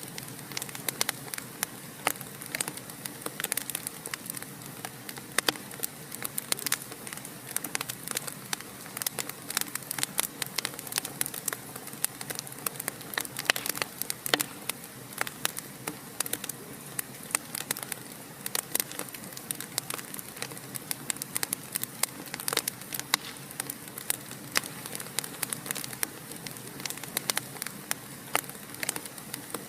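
Wood fire in a fireplace crackling: a steady low hiss with frequent irregular sharp pops and snaps.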